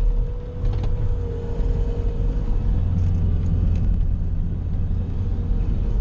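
Bobcat skid-steer loader's diesel engine running steadily under load while plowing snow, a low rumble with a thin steady whine over it.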